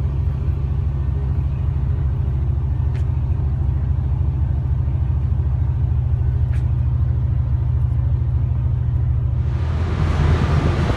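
Steady low engine rumble of a moving vehicle. About nine and a half seconds in, a loud rushing hiss joins it.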